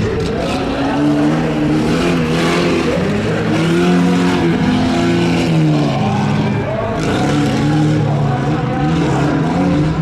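Stock pickup truck engine revving hard on a dirt obstacle course, its pitch climbing and dropping several times as the throttle is worked.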